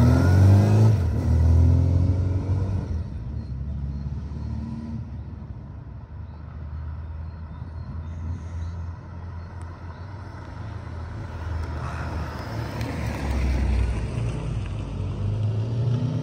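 1979 Suzuki GS1000S's inline-four engine, on its original exhaust, pulling away and revving up through the gears, then fading into the distance. About twelve seconds in it grows louder again as the bike rides back.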